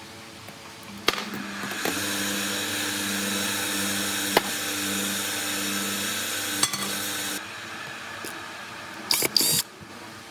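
A small electric motor runs steadily for about six seconds with a low pulsing hum and a hiss. It starts with a click about a second in and cuts off abruptly. A few short, sharp metallic clinks follow near the end.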